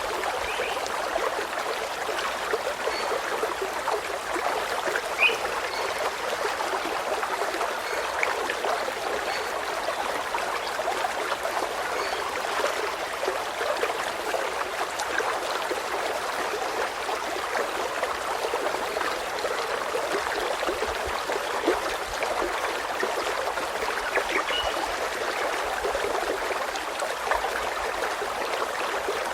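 Running water trickling steadily, with a few short, faint bird chirps now and then.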